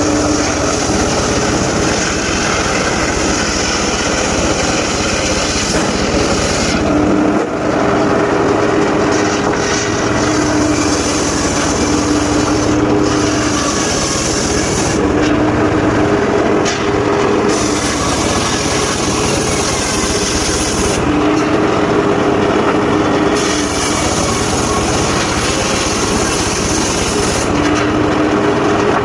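Engine-driven mobile circular sawmill running steadily while its blade saws mahogany and waru logs. The sound changes about every six seconds, with the hiss dropping away briefly each time.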